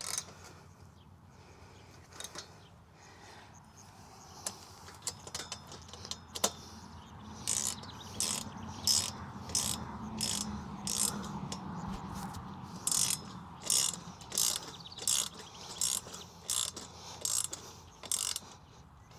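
Socket ratchet wrench clicking while tightening the bolts of a metal roof mount: a few scattered strokes at first, then from about seven seconds in a steady run of back-and-forth strokes, about two a second, that stops just before the end.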